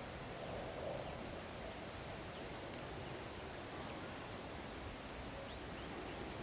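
Night forest ambience: crickets trilling in a steady high chorus over a soft, even wash of rain and wind in the trees, with a few faint short chirps.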